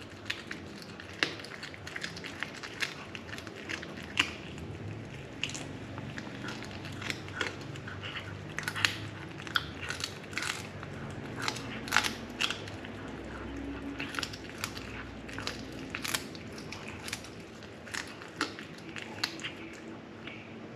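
A cat chewing and biting into a freshly caught bird, with sharp, irregular crunches every fraction of a second.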